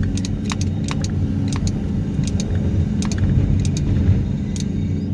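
Excavator diesel engine running steadily, with scattered sharp clicks and rattles.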